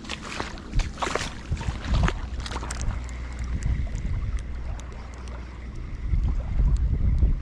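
Outdoor wind rumble on the microphone, with a quick run of short clicks or splashes over the first few seconds and a faint steady high tone from about three seconds in; the rumble grows louder near the end.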